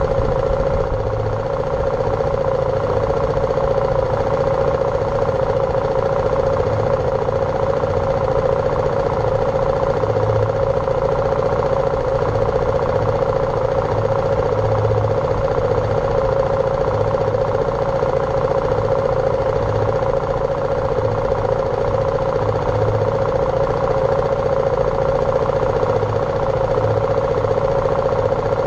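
BMW G310R single-cylinder motorcycle engine running at a steady pitch while riding, with a low rumble of wind and road noise underneath.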